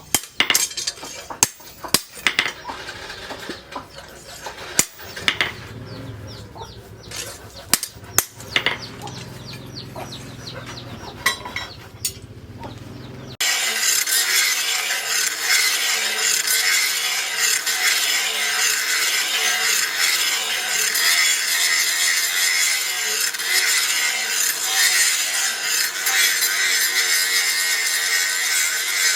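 Irregular sharp knocks of steel being worked, then, after a cut about halfway through, a steady harsh rasping of the sprocket steel being abraded for the machete blade.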